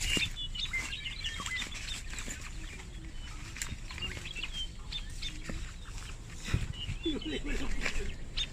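Birds chirping in short, scattered calls over a steady low rumble, with occasional brief knocks and rustles. A lower, wavering call comes about seven seconds in.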